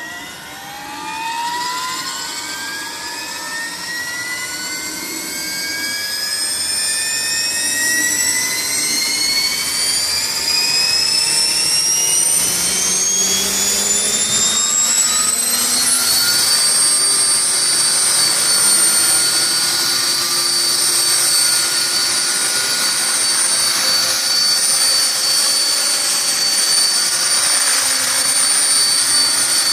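Align T-Rex 500 electric RC helicopter spooling up: the motor and gear whine rises steadily in pitch for about sixteen seconds as the rotor comes up to head speed, then holds a steady high whine.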